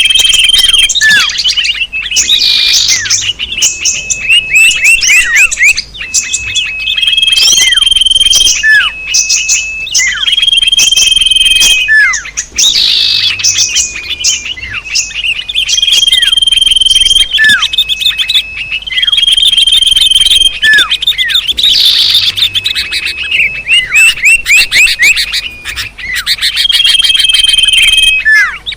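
Small songbirds chirping in a bird-lure recording. A held high whistle is followed by a quick run of falling chirps, and the pattern repeats every few seconds in a loop.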